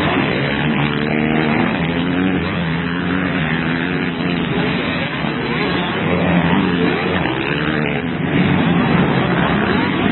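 Motocross bikes racing, several engines revving up and down as the riders work the throttle through the gears.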